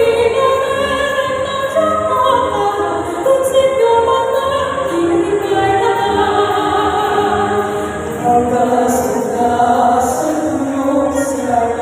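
A choir singing a slow song in long held notes, many voices together, with musical accompaniment.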